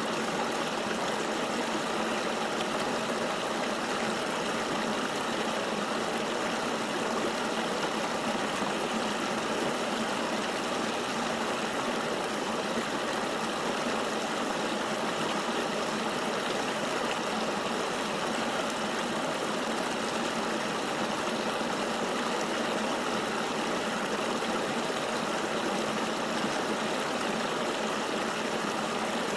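Flowing river water rushing steadily, an even hiss with no breaks or changes.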